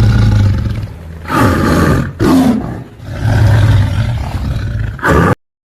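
A big cat roaring: a run of about five deep, loud roars and grunts of uneven length, ending abruptly near the end.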